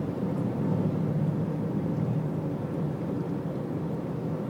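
Many motorcycle engines running together as a group rides past, a steady low rumble.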